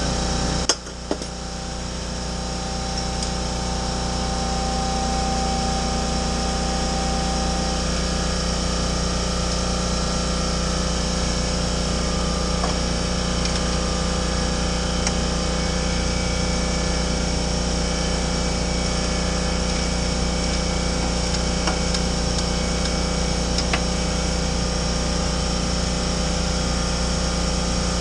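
A steady mechanical hum runs throughout. A sharp knock comes about a second in, and a few faint clicks follow later.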